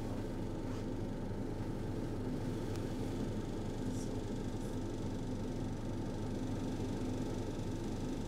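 Steady running hum and rumble of a Roslagsbanan X10p electric multiple-unit train heard from inside the passenger car, with a few faint steady tones and a couple of light clicks about three and four seconds in.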